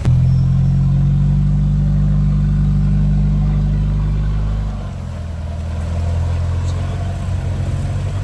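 Off-road 4x4 engine running loudly at steady revs, stepping down to a lower note about five seconds in.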